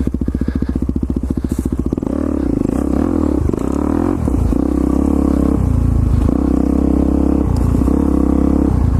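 Single-cylinder dirt-bike engine on a trail ride, chugging at low revs for the first couple of seconds, then the throttle is opened and closed several times so the engine note rises and dips repeatedly.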